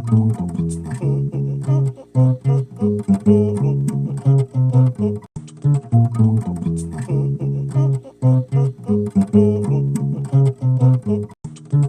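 Bass guitar played solo: a quick run of plucked notes in a melodic riff, the phrase coming round again about halfway through.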